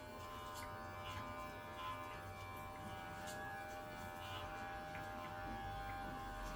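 Electric pet hair clipper running with a steady buzzing hum as it cuts a cat's fur, with a few faint clicks.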